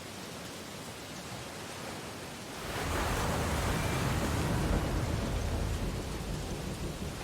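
Ocean waves on a beach: a steady hiss of surf, then a wave breaks about three seconds in, its wash swelling for a couple of seconds and slowly fading.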